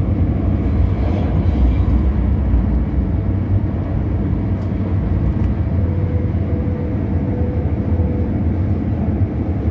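MTR South Island Line S-Train running at speed, heard from inside the passenger car: a steady low rumble of wheels and running gear, with a faint steady whine through the middle.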